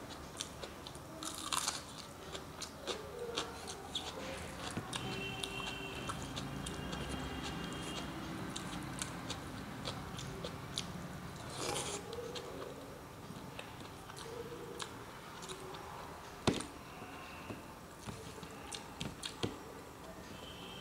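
A person eating by hand, chewing with many small wet mouth clicks and smacks, a few of them louder.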